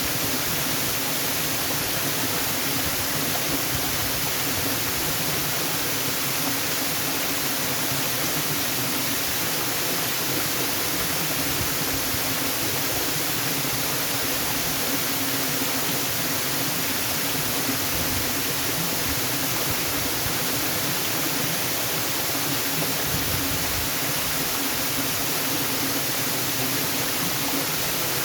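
Waterfall rushing steadily, an even hiss of falling water that does not change in level.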